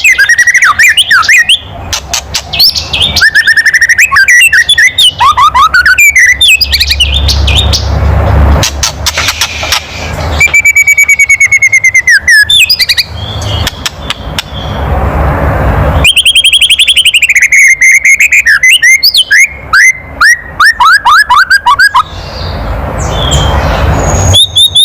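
White-rumped shama (murai batu) giving its harsh 'kretekan' rattle call, loud: stretches of rapid clicking alternate with quick whistled glides and trills. This is the agitated challenge call that bird keepers play to provoke other shamas into singing.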